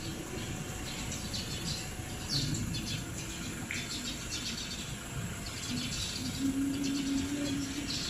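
Small birds chirping: short high chirps repeated irregularly over a steady background rumble, with a low hum joining near the end.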